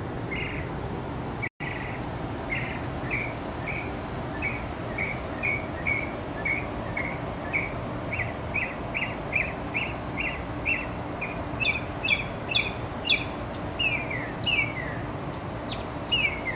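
A bird calling over and over in short chirps, about two a second, joined by higher, falling notes in the second half, over a steady background hiss.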